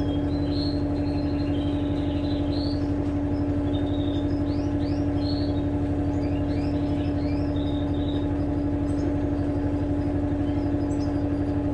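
Electrolux LTE12 washing machine running with a loud, steady motor hum that holds one pitch. Birds chirp faintly over it.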